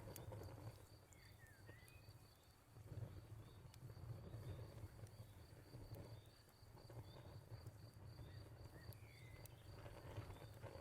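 Wood fire crackling quietly over a low rumble, with a few sharp pops scattered through. A faint, high, even ticking repeats several times a second throughout.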